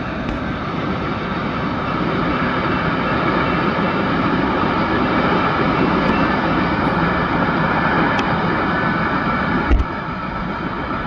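Cars of a BNSF double-stack freight train rolling past close by: a steady rushing rumble of wheels on rail. A short low thump comes near the end, and the level drops slightly after it.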